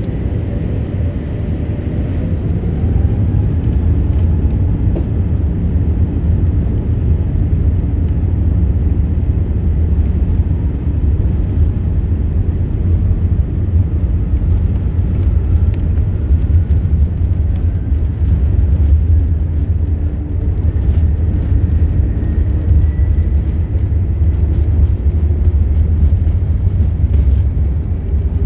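British Airways Airbus A380 heard from inside the cabin: a loud, steady, heavy rumble, getting louder about three seconds in, with a faint engine whine slowly rising in pitch as the engines push the aircraft through its take-off.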